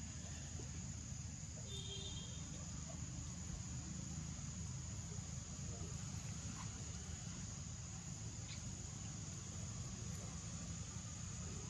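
Steady outdoor ambience of insects trilling at one high pitch over a low rumble, with a faint brief chirp about two seconds in.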